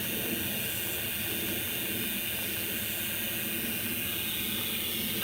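Steady hiss of radio static from a handheld spirit box.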